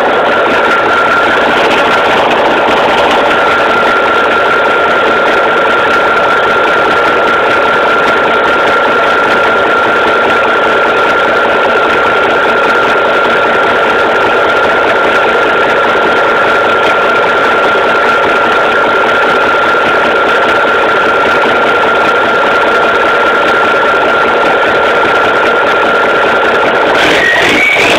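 Ford L9000's Cummins N14 inline-six diesel idling, its turbocharger giving a steady high whistle over the engine. About a second before the end the engine revs and the whistle rises sharply in pitch.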